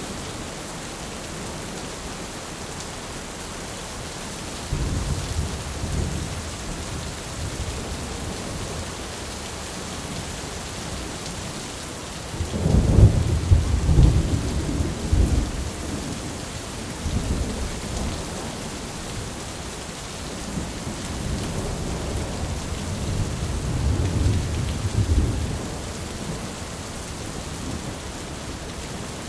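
Steady rain hiss with rolls of distant thunder rumbling low: one about a sixth of the way in, a louder, longer roll around the middle, and another building near the end.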